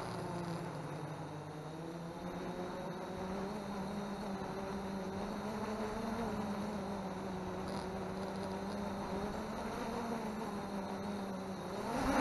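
MJX Bugs 3 quadcopter's brushless motors buzzing steadily at low throttle, the pitch drifting a little, then climbing sharply near the end as the throttle is pushed up.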